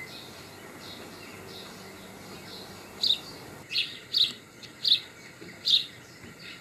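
Small songbirds chirping: faint calls at first, then a run of about five loud, short, sharp chirps in the second half.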